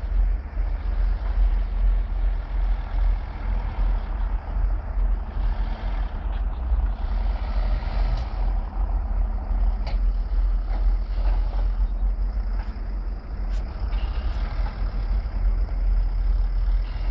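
Off-road vehicle engine running steadily with a strong low rumble, as an ATV with a snow plow blade works; a few faint clicks sound over it.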